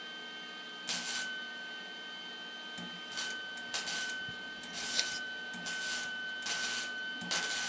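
Flux-core MIG welder tack welding sheet metal: a series of short crackling hisses, each a fraction of a second, over a steady high whine.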